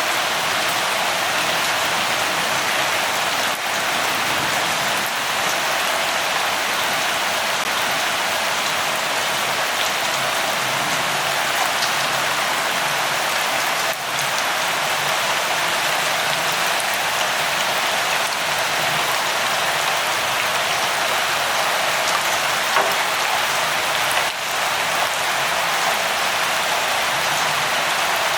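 Steady rain falling, an even hiss with faint scattered drop ticks and three short dips in level.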